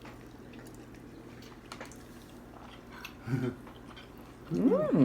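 Quiet eating at a table: a low steady hum with scattered faint clicks. A brief voiced sound comes about three seconds in, and near the end a person's voice rises and falls in pitch just before speaking.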